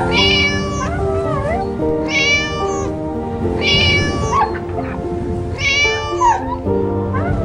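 A kitten meows four times, each call high-pitched and drawn out, over background music.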